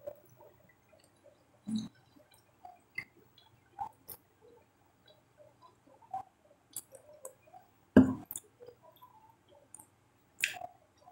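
Close-up eating sounds: soft wet chewing and small mouth clicks as a fish moqueca is eaten by hand, with one louder knock about eight seconds in.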